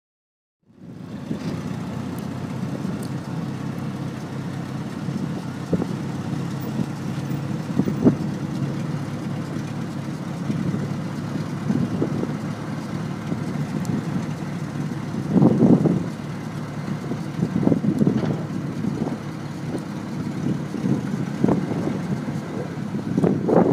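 Hyster forklift engine running at a steady idle, with several short louder surges, strongest about two-thirds of the way through.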